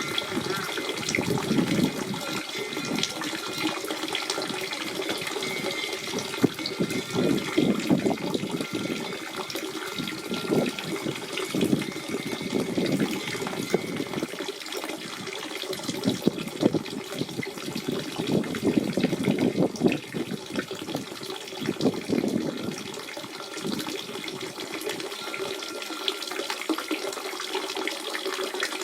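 Natural spring water running and gurgling in a steady flow, with uneven surges, quieter in the low end near the end.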